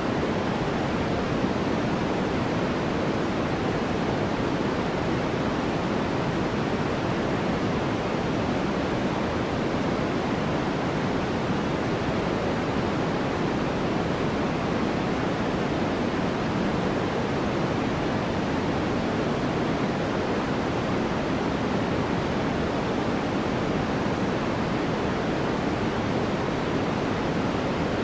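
Continuous sleep-aid white noise: a steady, unchanging hiss with no rhythm or events. It is fuller in the low and middle range than in the treble.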